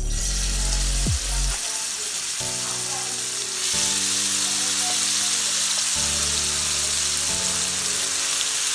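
Masala-coated mole crabs sizzling in hot oil in a frying pan, the sizzle starting suddenly as they go into the oil, with background music underneath.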